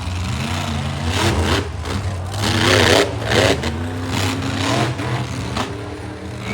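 Monster truck engine running loud, with a steady low drone under repeated revs that rise and fall in pitch. The loudest rev comes about three seconds in.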